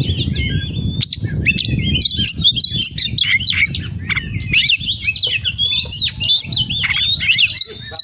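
Oriental magpie-robin singing a fast, unbroken stream of varied chirps and whistles, packed with mimicked calls of other birds, over a steady low rumble.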